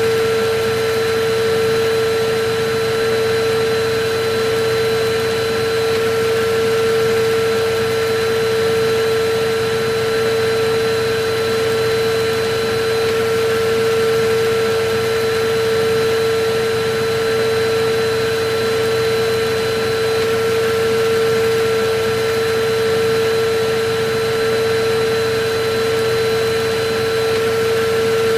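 Electric vacuum cleaner running steadily: a constant motor whine over an even rush of air, swelling and easing slightly every few seconds.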